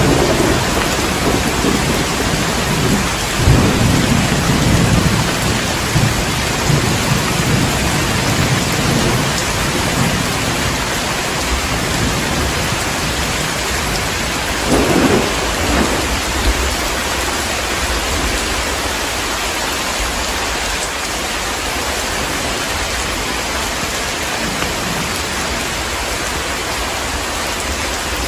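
Heavy rain falling steadily, with thunder rumbling through the first ten seconds or so and a shorter roll of thunder about fifteen seconds in.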